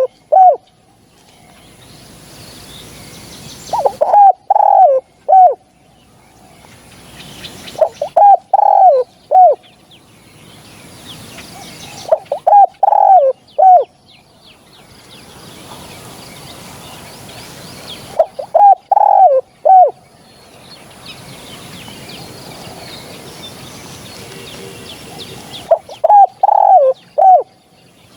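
Spotted dove cooing: five repeated phrases, each of three or four low, slurred coos, spaced a few seconds apart. Faint chirping of other small birds fills the gaps.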